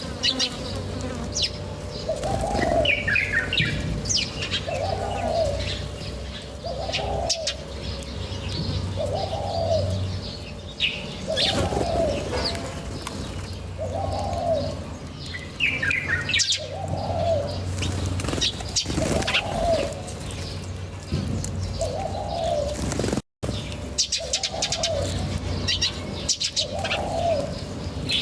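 Birds calling: one bird repeats a short, low, arching note about every two seconds, with higher chirps and sharp clicks from other birds in between. The sound cuts out for a moment about three-quarters of the way through.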